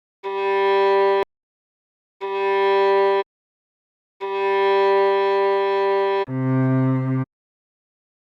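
Viola playing single bowed notes of a slow melody, each note separated by silence: two short notes at the same pitch, a third held longer, then a step down to a lower note.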